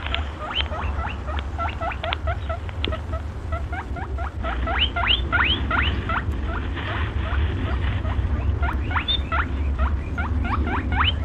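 Quick runs of short, high, rising squeaks, several a second, from a small animal given as a rabbit's sound, over a steady low rumble.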